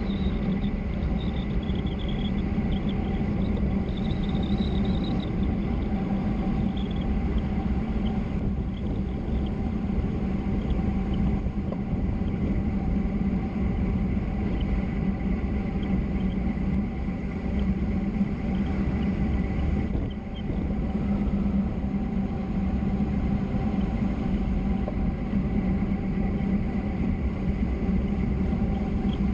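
Steady rumble and hiss of road and wind noise while travelling fast downhill, with a steady hum running under it.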